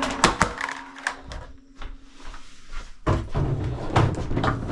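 Several knocks and taps of gear being handled, then clattering and rustling from about three seconds in, close to a chest-worn camera.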